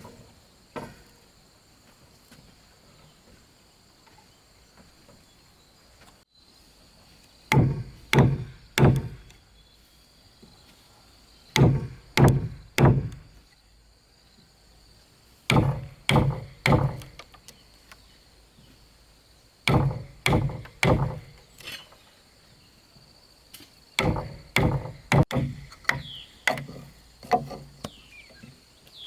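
Repeated blows of a tool striking wood, in bursts of three or four strokes every few seconds. The blows start about seven seconds in and come faster near the end. A faint steady insect chirr runs underneath.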